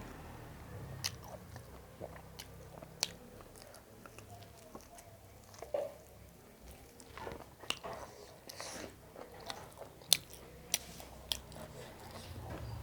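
A person chewing and biting food close to the microphone, with scattered sharp wet smacks and crunches. The loudest smack comes about ten seconds in.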